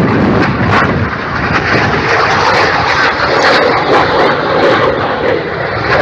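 Jet aircraft flying past, a loud, steady engine noise.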